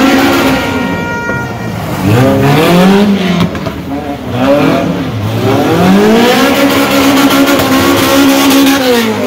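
Car engine revved hard several times, its pitch climbing and dropping. The last rev is held high for about three seconds before falling near the end.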